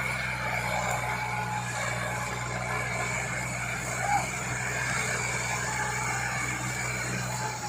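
Tractor engine running steadily, with a short, brief sound rising above it about four seconds in.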